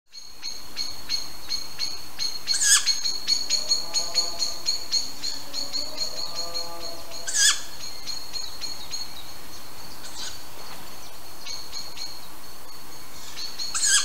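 Wild birds calling: a fast run of repeated high chirps, broken about every four to five seconds by a louder, short, sharp call.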